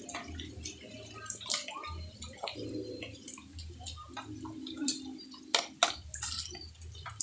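Water dripping and splashing, with irregular sharp splashes and knocks over a low hum.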